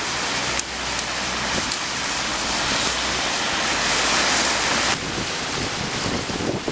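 Typhoon rain and wind: a dense, steady rush of heavy rain with gusting wind that swells in the middle and drops off abruptly about five seconds in.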